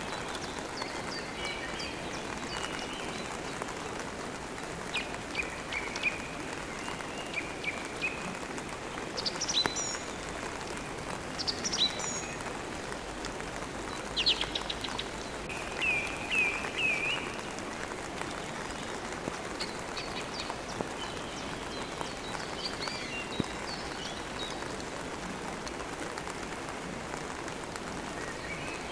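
Steady rain, with birds chirping and trilling on and off over it, the calls most frequent in the middle stretch.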